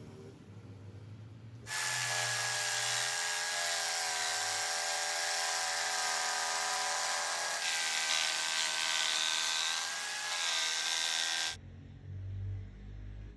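A power tool running for about ten seconds, a steady whine over loud noise, starting and cutting off abruptly.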